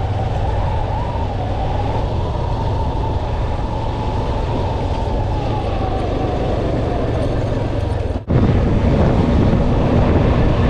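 Yamaha FZ-S V2 motorcycle's single-cylinder engine running on the move, heard from a helmet-mounted camera with road and wind noise. The sound cuts out for a moment about eight seconds in, then carries on.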